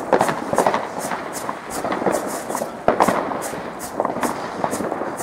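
Fireworks going off: an irregular run of bangs and crackles, several a second, with a few sharper bangs standing out.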